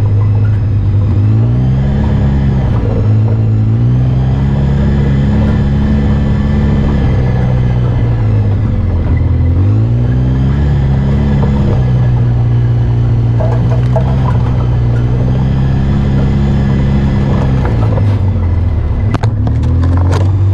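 Off-road vehicle engine running on the trail, its pitch rising and falling over and over as the throttle is opened and eased. A few sharp knocks come near the end.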